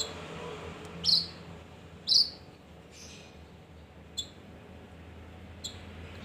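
Male kinoi giving short, sharp, high chirps: two loud sweeping calls about a second apart near the start, then a few fainter single chips spaced out over the next few seconds, over a steady low hum.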